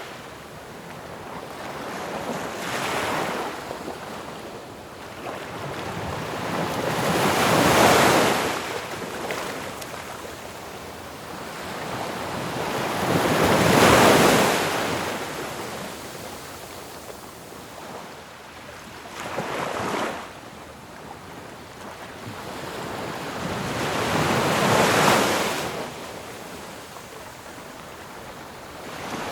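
Ocean waves breaking on a shore, a steady wash of surf with a big wave cresting and crashing about every six to eleven seconds, three large ones and a couple of smaller ones.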